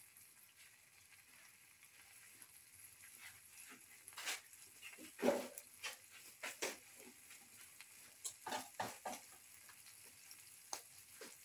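Cooked clam meat frying in oil in a pan: a faint sizzle with scattered crackles and clicks, the loudest about five seconds in.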